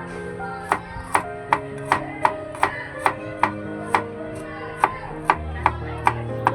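Knife chopping on a cutting board in quick, even strokes, about two to three a second, with a short pause just past the middle.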